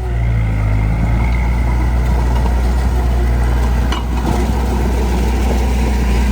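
Heavy diesel engine of earthmoving machinery running steadily with a deep rumble, its pitch shifting briefly about a second in; a short knock about four seconds in.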